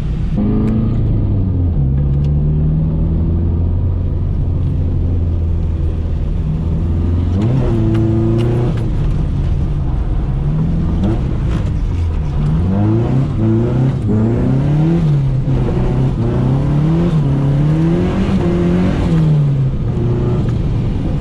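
Nissan 240SX (S13) engine running while driving, at first steady with one brief rise in revs. In the second half the engine is revved up and down over and over, rising and falling about once a second.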